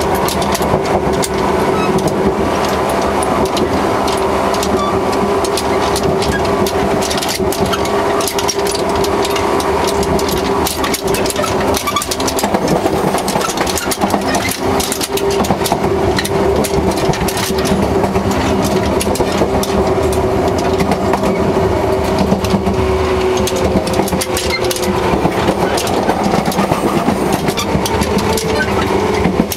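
JR 115 series 3000 subseries electric train running, heard from beside the coupler. A steady hum with a constant tone sits under continual clicks and rattling from the coupler.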